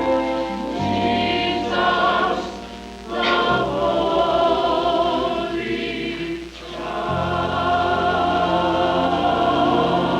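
Church choir singing with sustained instrumental accompaniment in the bass. Two brief dips mark breaks between phrases.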